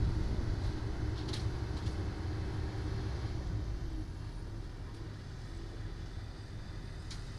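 Hydraulic excavator's diesel engine running under load; its note eases down about halfway through. A couple of short high clicks sound over it, one just over a second in and one near the end.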